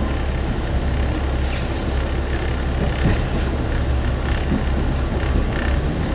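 Cabin sound of a single-car diesel railcar under way: a steady low engine drone under rolling rail noise, with a few light clicks and rattles.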